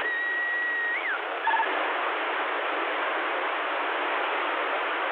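CB radio receiver hissing with band static on an open channel between transmissions. In the first second a beep tone holds steady, then bends up and drops away, and a short double beep follows.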